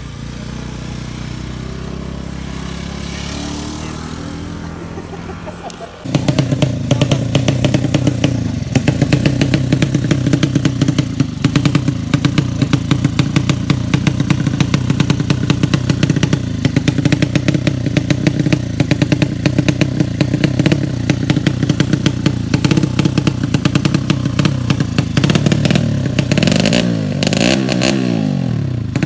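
Tuned 200cc drag-racing motorcycle engine. It runs quieter at first, then about six seconds in it jumps suddenly to a loud, steady high rev with a rapid crackle, held for about twenty seconds. Near the end the revs rise and fall repeatedly, as the engine is revved during setting up.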